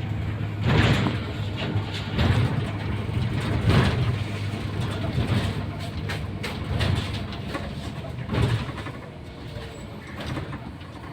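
Mercedes-Benz O530 Citaro city bus on the move, heard from inside: a steady low engine hum and road noise with occasional knocks and rattles. It grows quieter near the end.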